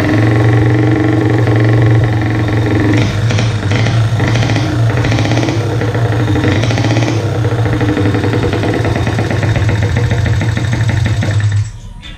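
Honda Little Cub's 50cc single-cylinder four-stroke engine running through a stainless upswept aftermarket exhaust (Tanaka Shokai), a steady exhaust note with some pulsing in the middle, cutting off near the end.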